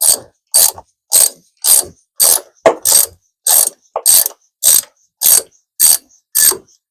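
Hand socket ratchet wrench clicking in a steady back-and-forth rhythm, about two strokes a second, each return stroke a short run of pawl clicks, as a nut is worked loose.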